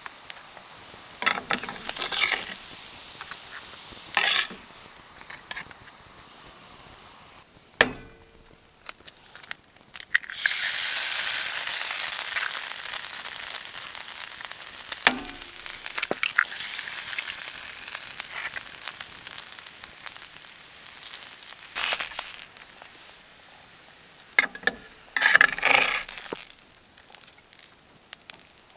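Breakfast food sizzling as it fries in a pan on a wood stove, with occasional short knocks and scrapes. About ten seconds in, a louder sizzle starts suddenly and slowly dies back.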